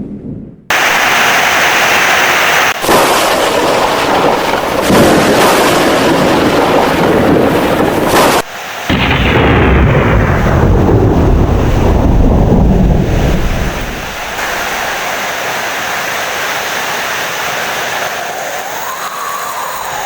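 Heavy rain with thunder rumbling and crashing. The sound breaks off abruptly a few times, like edits between recordings. After about fourteen seconds the thunder fades and steady, slightly quieter rain is left.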